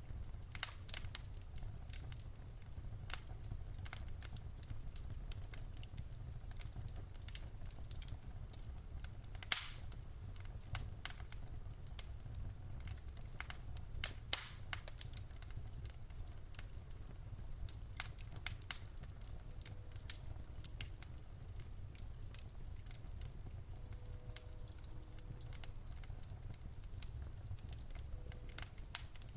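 Wood fire burning in a fireplace: irregular sharp crackles and pops of the burning logs over a low steady rumble of the flames.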